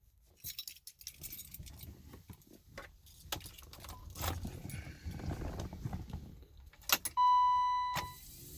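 Car keys jangling and clicking as they are handled and put into the ignition of a 1987 BMW M6. Near the end a single steady electronic beep sounds for under a second.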